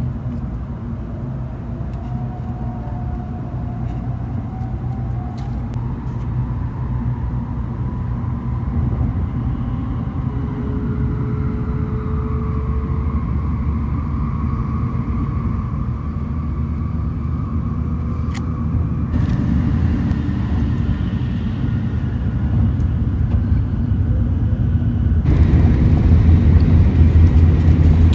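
Inside a Shinkansen bullet train cabin: the steady low rumble of the train running at speed, with faint whining tones that slowly drift in pitch. It grows gradually louder and steps up noticeably near the end.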